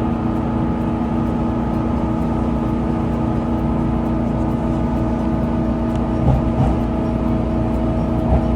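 Electric train heard from inside the car while running steadily: a low rumble with several steady motor tones held throughout. A few low thumps come near the end.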